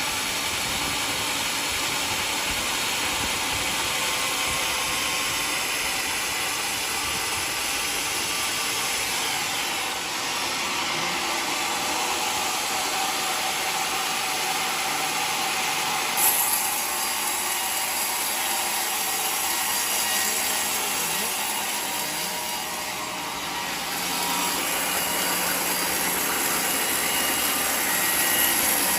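Portable sawmill sawing through a mahogany log: a steady, mostly high-pitched noise, with a sharp click about sixteen seconds in and a short dip in level a little after twenty seconds.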